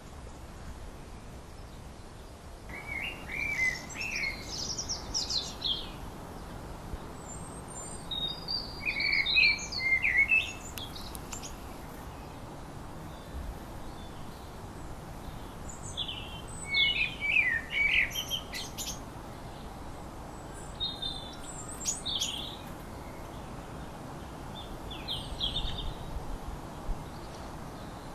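A songbird singing short, quick, varied phrases of high notes, about five of them a few seconds apart, over a steady background hiss.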